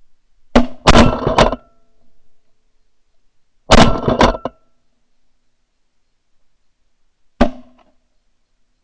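Shotguns firing at incoming ducks from several hunters at once. A quick string of overlapping shots comes about half a second in, another burst follows near four seconds, and a single last shot comes near the end.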